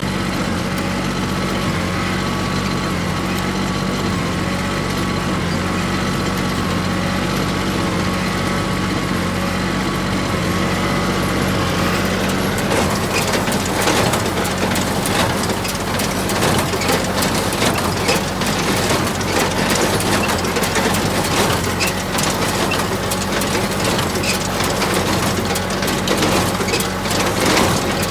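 Small tractor engine running steadily; about twelve seconds in, an antique hay baler's mechanism starts working, adding a busy clattering and knocking over the engine.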